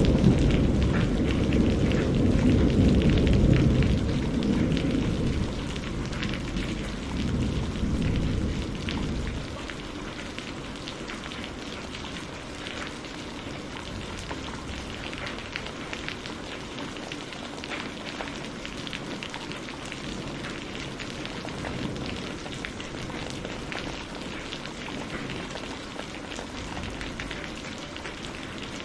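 Steady heavy rain with dense pattering drops, under the tail of a thunder rumble that dies away over the first nine seconds or so.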